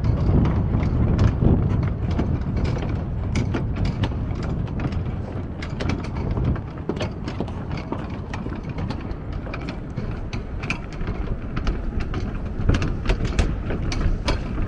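Outdoor city ambience: a steady low rumble, heaviest in the first couple of seconds, with many short, sharp clicks and knocks throughout.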